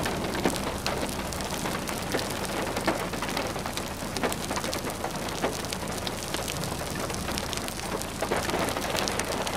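Heavy rain beating down, a steady hiss full of sharp separate drop hits, over a steady low hum.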